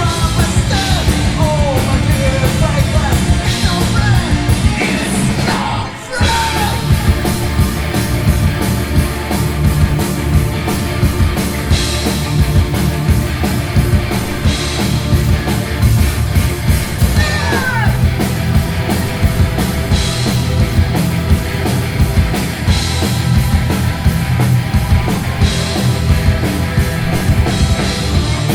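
Rock band playing a hard, punk-edged rock song with drums, electric guitars and yelled vocals; the band drops out for a split second about six seconds in.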